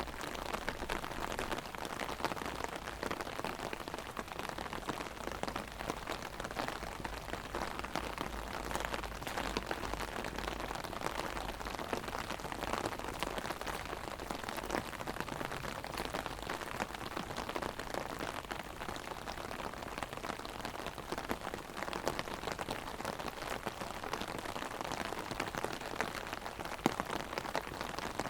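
Heavy rain drumming on an umbrella overhead: a dense, steady patter of drops.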